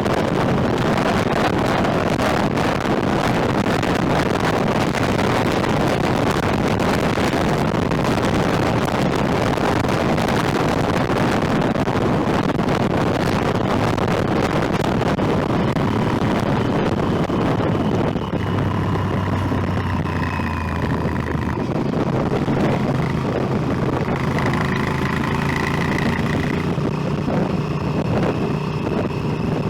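Motorcycle riding along, its engine note mixed with heavy wind rush on the microphone. About 18 seconds in the wind noise drops and the engine's tone comes through more clearly, rising and falling in pitch with changes in speed.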